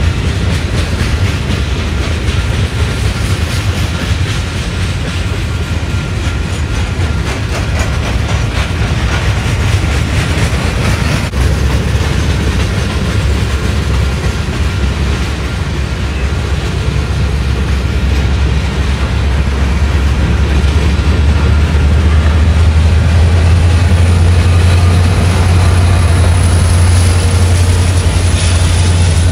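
Freight train passing close by: a steady rumble of steel wheels clattering over the rails under boxcars and tank cars. Near the end a Union Pacific diesel locomotive comes past, and its deep engine rumble grows louder.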